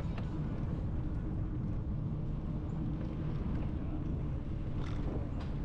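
Steady low rumble of wind buffeting the microphone during a bike ride, with a few faint ticks near the end.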